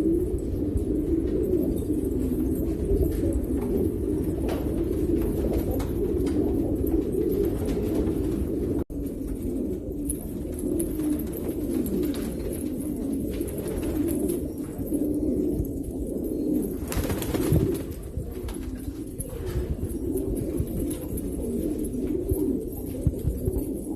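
Many domestic pigeons cooing together in a steady, overlapping chorus over a low background rumble. The sound cuts out for an instant about nine seconds in.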